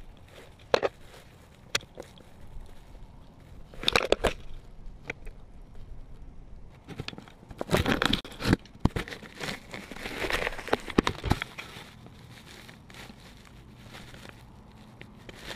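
Bald eagle handling a GoPro camera: its beak and talons knock and scrape against the plastic housing, heard right at the camera's own microphone. The sharp knocks and crackling scrapes come irregularly, with a busier cluster about halfway through.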